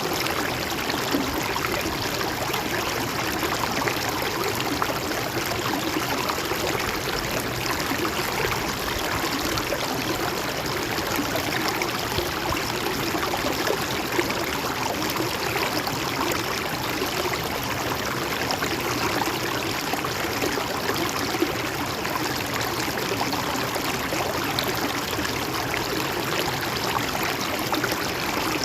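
Shallow river flowing steadily, water rushing and gurgling over rocks.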